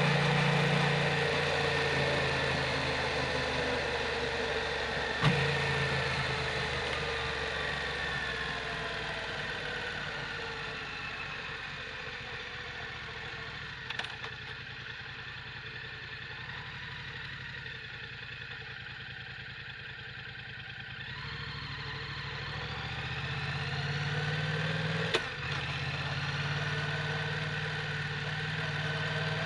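Yamaha MT-07's parallel-twin engine through an Akrapovic full titanium exhaust, heard while riding. The revs and loudness fall off gradually through the first two-thirds, then rise again under acceleration, with a brief dip near the end like a gear change.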